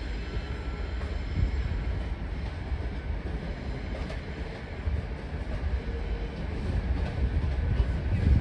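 A train running at a station platform, with a steady low rumble throughout.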